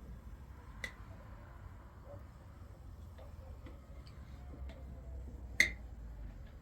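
A few light clicks and taps, with one sharp knock about five and a half seconds in, over a low steady rumble.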